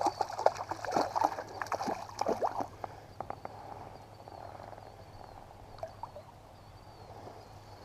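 Water splashing and dripping in quick small plops as a freshly caught rainbow trout thrashes and is handled at the side of a kayak; busy for about three seconds, then dying down to a faint hiss.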